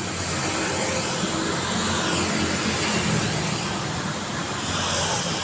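City street traffic: a steady wash of passing vehicle engines and tyre noise.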